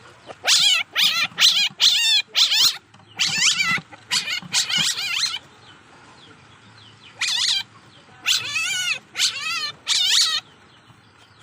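Young civet (musang) calling: a run of short, high, wavering squeals in quick clusters, a pause of about two seconds midway, then four more calls.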